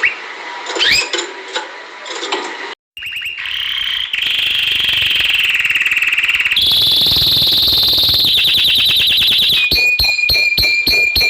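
Canary singing: a few short chirps, then after a brief break, long rapid trills held at an even pitch, shifting to a higher trill partway through and ending on a held whistled note.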